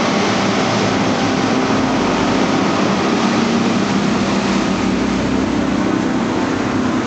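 A heavy engine running steadily: a low, even drone with a constant hum under a wash of noise.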